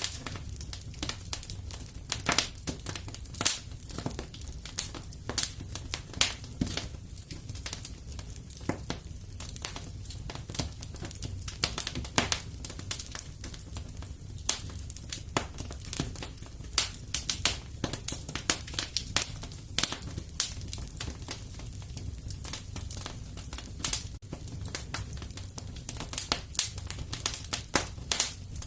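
Wood fire crackling in a fireplace: irregular sharp pops and snaps, some louder than others, over a low steady rumble of the burning fire.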